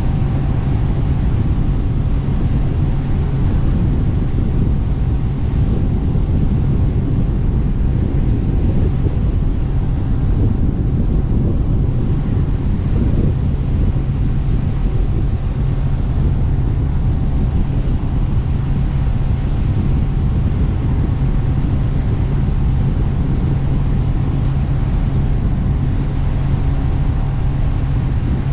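Jet boat under way, its engine running loud and even at a constant speed, with wind buffeting the microphone.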